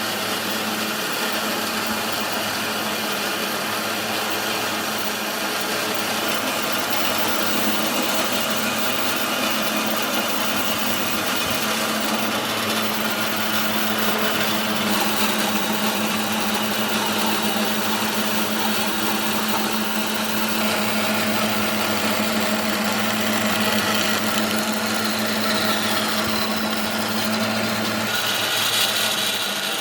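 A woodworking power tool running steadily with a constant motor hum and a noisy cutting or sanding hiss. Near the end the hum tone drops away and a brief higher hiss stands out.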